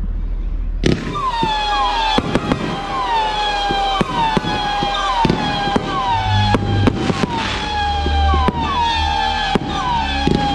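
Fireworks going off. From about a second in comes a string of whistling fireworks, each a falling whistle, a little more than one a second, over a run of sharp cracks and bangs.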